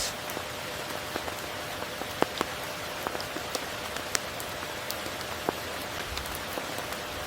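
Steady rain falling, with individual drops ticking sharply on a near surface; a few drops land louder, about two and five and a half seconds in.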